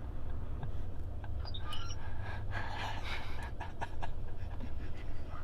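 A person's breathing and gasps, with scattered soft clicks, over a low steady hum.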